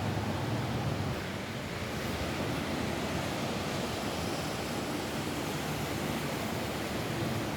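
Steady rain falling on a roof: an even, continuous hiss with a low rumble underneath, dipping slightly in loudness about a second in.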